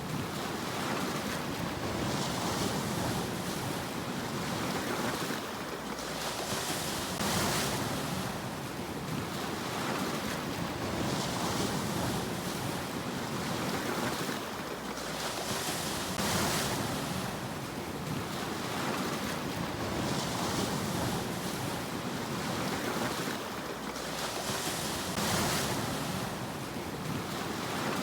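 Sea waves breaking and washing ashore: a steady rush of surf, with a fresh hissing surge every four to five seconds.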